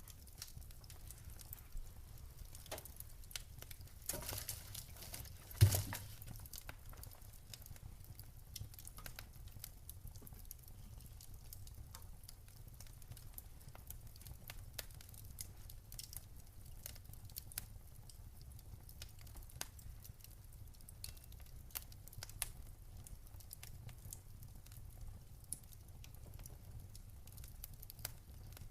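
Wood fire crackling over a low steady rumble, with irregular small pops and one much louder pop about six seconds in.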